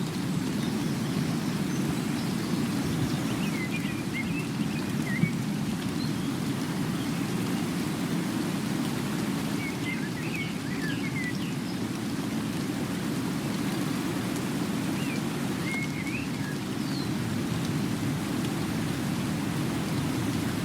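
A steady, low rushing noise of outdoor ambience, with small birds chirping briefly in a few scattered bursts over it.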